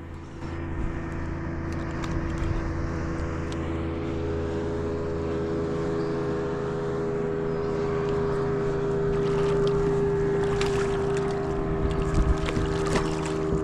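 A boat engine running steadily, growing a little louder toward the end, with a few knocks near the end.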